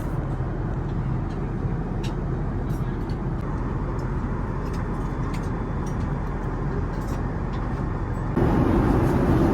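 Airliner cabin noise in flight: a steady low rush of engines and airflow, with a few faint clicks. It steps up in level near the end.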